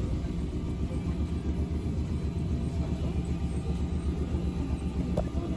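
Choshi Electric Railway car standing still, its onboard equipment giving a steady low rumble and hum. A faint click comes about five seconds in.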